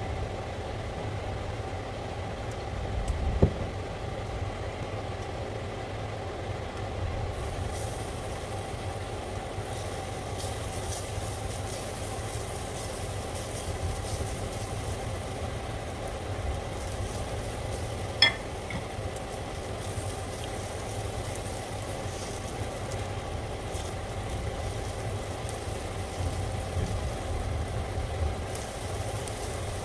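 Minced aromatics sizzling in hot oil in a stainless steel wok and being stirred with a spatula, over a steady low hum. The sizzle starts about a quarter of the way in, and a couple of sharp knocks of utensils on the pan are heard. Chopped red onion goes in near the end and the sizzle gets brighter.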